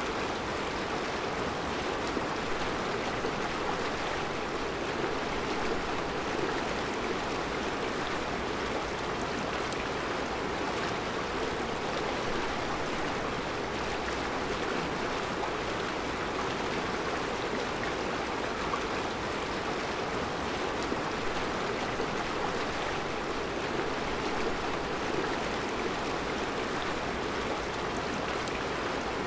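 Mountain river flowing over round rocks in a rocky bed: a steady, even rushing of water.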